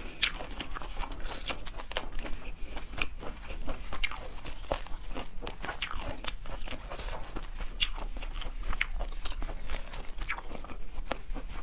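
Close-miked eating of seafood: a dense run of sharp crunches and wet clicks from biting and chewing.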